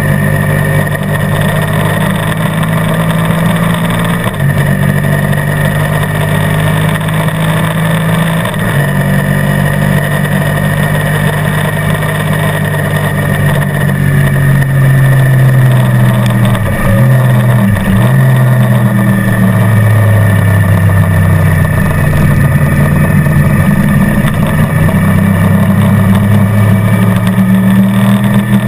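Motorcycle engine heard from a camera mounted on the bike, running at track speed, its note rising and falling with the throttle. Two short breaks in the note come about two-thirds through.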